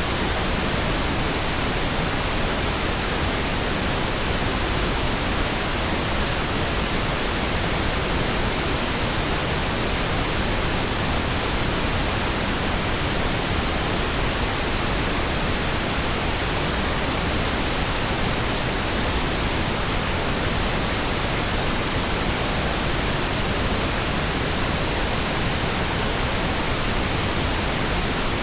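Synthetic pink noise: a steady, even hiss spread across the whole range, with no changes.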